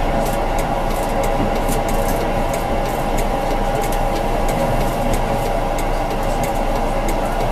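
Tram running along the track, heard from the driver's cab: a steady running rumble under a held whine, with scattered light clicks.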